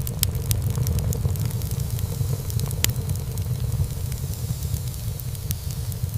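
Wood fire burning in a fireplace: a steady low rumble of flames under frequent small crackles, with one sharper pop about three seconds in.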